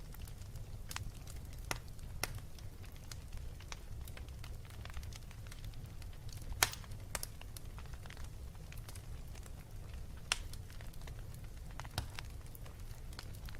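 Wood fire burning with a steady low rumble and irregular sharp crackles and pops, the loudest pop about halfway through.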